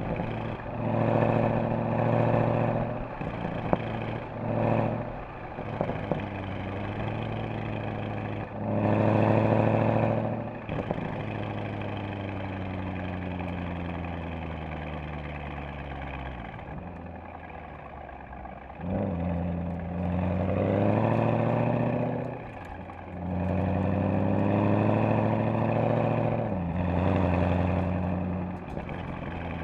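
Mercedes-AMG SL63's V8 exhaust pulling hard through several short bursts of acceleration with gear changes between them, then a long coast-down with the pitch falling, then two more long pulls near the end.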